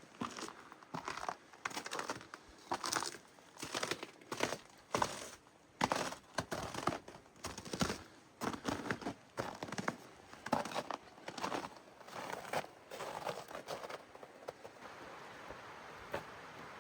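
Footsteps crunching through snow at a walking pace, about one step a second. The steps stop near the end, leaving a steady rushing hiss.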